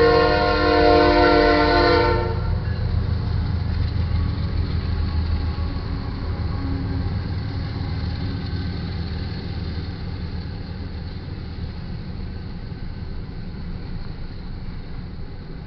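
Freight train horn sounding one steady multi-note chord that cuts off about two seconds in, then the low rumble of the diesel-led intermodal train running past, slowly fading.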